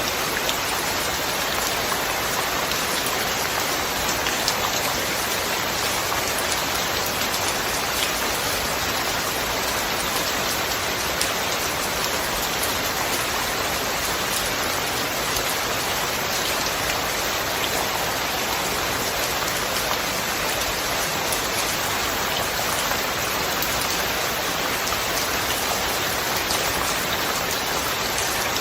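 Steady rain falling, a dense even hiss with the patter of countless drops on a surface, no thunder.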